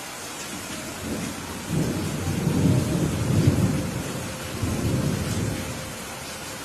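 Thunder rumbling over steady rain. A low roll builds about a second in, swells twice and dies away near the end, while the rain's even hiss carries on beneath it.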